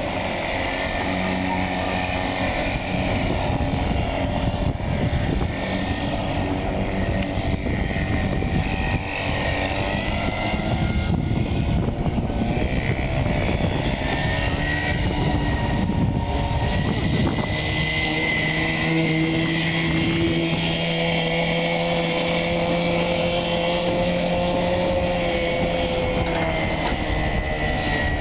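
A boat's motor running steadily, its pitch drifting slowly up and down.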